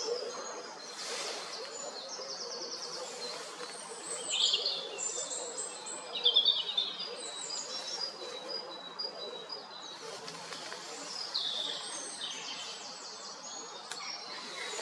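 Songbirds singing: many short, high-pitched chirps and trills overlapping and repeating, over steady background noise.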